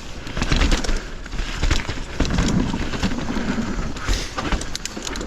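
Mountain bike rolling over rough trail: tyre noise on dirt with frequent sharp rattles and knocks from the bike, over a low rumble of wind on the mic.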